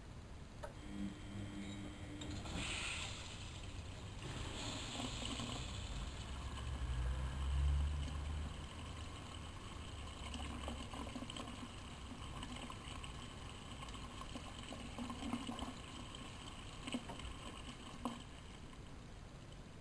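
Miele Novotronic Meteor 2200 washing machine in the wash phase of a 95 °C boil wash: the drum turns the laundry through the water with sloshing and a low motor rumble that swells to its loudest about eight seconds in. A few short clicks sound near the end.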